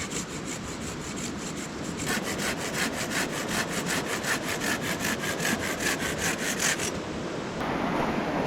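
Hand saw cutting through firewood in quick, even strokes, about four a second, stopping about seven seconds in.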